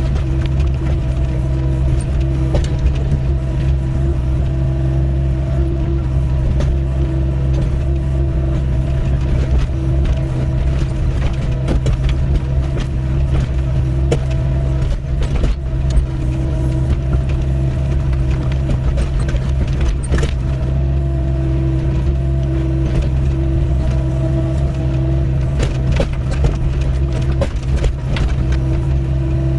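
Doosan DX55W wheeled excavator's diesel engine running steadily, with scattered knocks and scrapes as the bucket digs a trench in stony ground.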